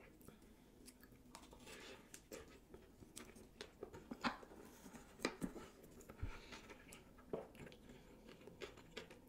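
Close-miked chewing of a mouthful of sushi roll: faint, wet mouth sounds with scattered sharper clicks.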